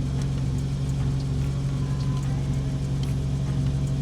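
Nissan Z Nismo's 3.0-litre twin-turbo VR30 V6, fitted with a Nismo Track exhaust, idling steadily.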